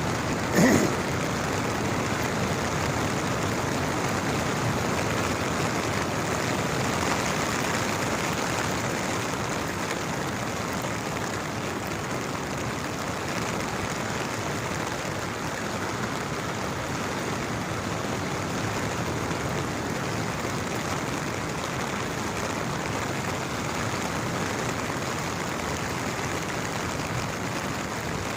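Steady hiss of monsoon rain falling, with one brief louder sound less than a second in.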